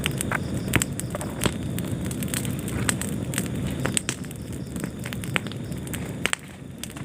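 Fire burning in a fireplace: a steady low rumble of flames with irregular sharp crackles and pops, a little quieter about six seconds in.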